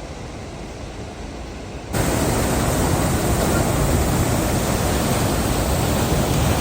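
Waterfall rushing: a steady, even roar of falling water, which jumps abruptly louder about two seconds in and then holds steady.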